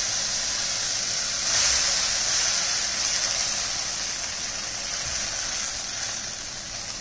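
Omelette batter of beaten egg and vegetables sizzling on a hot oiled pan as it is poured in and spread with a spoon. The sizzle swells about a second and a half in, then slowly dies down.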